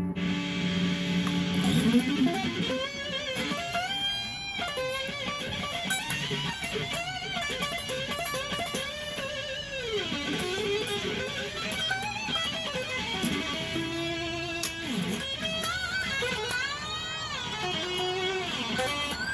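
PRS Tremonti electric guitar played through a Zoom X1 effects unit: a single-note lead line with many string bends and vibrato, its notes sliding up and down in pitch.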